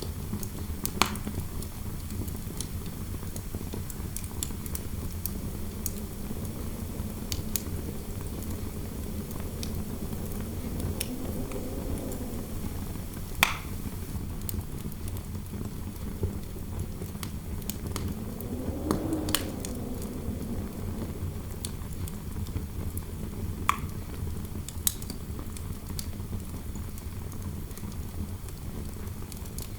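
Wood fire crackling with scattered sharp pops over a steady low rush of wind, and the wind howls softly, rising and falling twice.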